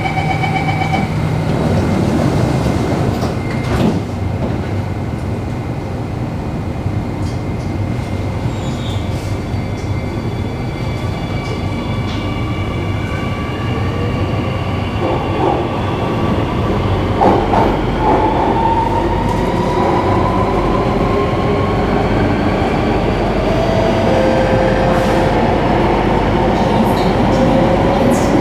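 Electric metro train setting off after its doors close: a beeping door chime fades in the first second, then a steady rumble of wheels on rail, with the traction motors' whine climbing in pitch as the train speeds up through the second half.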